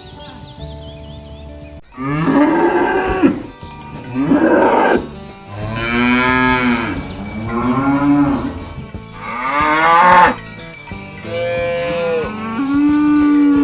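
Cattle mooing: about six long moos in quick succession, each a drawn-out call, beginning about two seconds in after a quieter opening.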